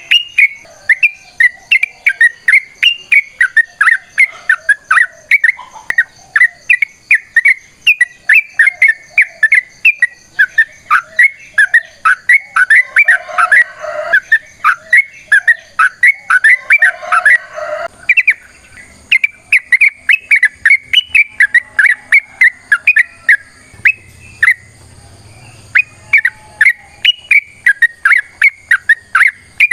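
Yellow-vented bulbul (trucukan) singing a long, rapid run of short chirping, whistled notes, about three a second. The run breaks off briefly about two-thirds of the way through, then starts again.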